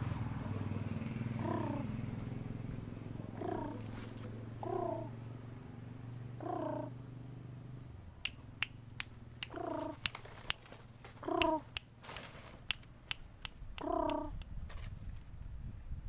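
Zebra dove (perkutut) giving seven short, soft coos, one every couple of seconds. From about halfway, a series of sharp clicks joins them, and a low hum fades out.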